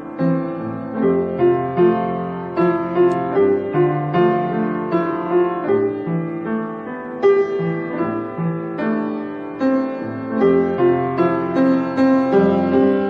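Solo piano playing a gentle melody over chords, notes struck in an even flow about every half second.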